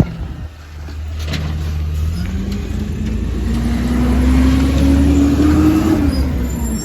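Compost truck's engine revving up: its pitch climbs steadily for about four seconds under a heavy low rumble, then drops away near the end.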